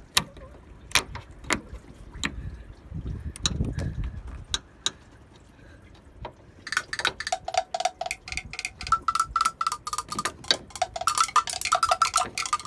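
Metal clicks and clinks of pliers working a spring hose clamp on a radiator hose. Scattered single clicks come first, then from about halfway a rapid run of clicks, around five or six a second, with a bell-like metallic ring.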